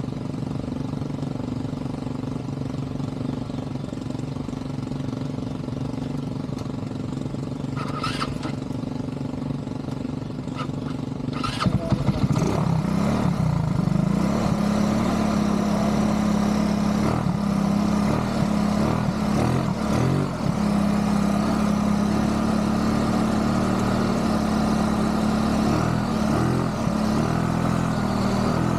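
ATV engine running steadily at low speed, then revved up about twelve seconds in and held at a higher, steady speed. There are a couple of short clicks just before the rise.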